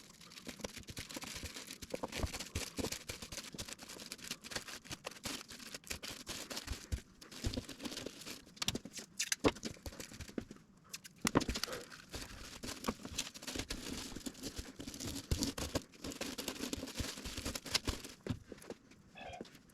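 Masking tape being pulled off the roll and torn, mixed with plastic crinkling, in an irregular run of ripping and rustling as a door panel is masked off.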